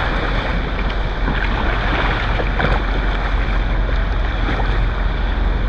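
Steady wind noise buffeting the microphone, with the wash of sea water around a kayak.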